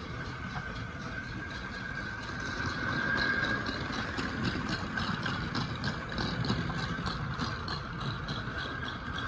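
TYCO Ralston Purina hi-cube chug-chug sound boxcar rattling in an even rhythm as it rolls, small rocks bouncing on a roller inside, over the steady whine of the Kader-drive steam locomotive's motor and the rumble of the wheels on the track. It gets a little louder about three seconds in.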